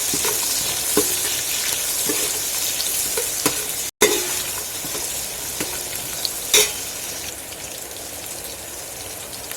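Sliced onions sizzling in hot oil in a pot while being stirred, with a few sharp knocks of the stirring spoon against the pot. The sound cuts out briefly about four seconds in and comes back a little quieter.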